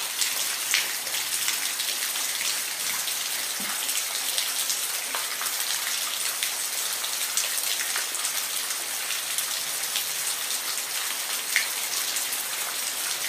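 Steady rain falling, a dense even hiss with scattered sharper drops striking a surface.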